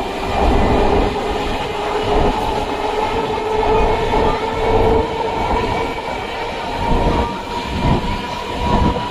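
Electric suburban train running along the track: a continuous rumble of wheels on rail with irregular knocks, and a steady whine over it.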